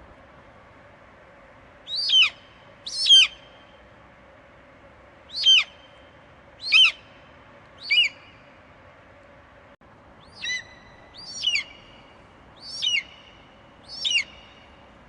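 Eagle screeching: nine short, piercing cries, each falling sharply in pitch, spaced about one to two seconds apart over a faint steady hiss.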